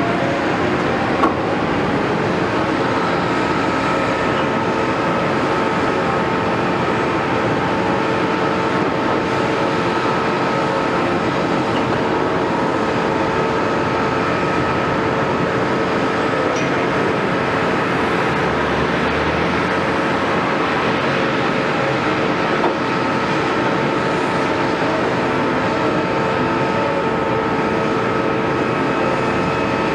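Caterpillar 329E excavator running steadily, with a steady whine over the engine noise and a single click about a second in.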